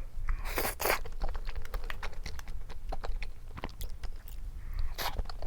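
Close-miked eating of mala rosé tteokbokki: chewing with many small wet mouth clicks, and two louder bursts, about half a second in and near the end.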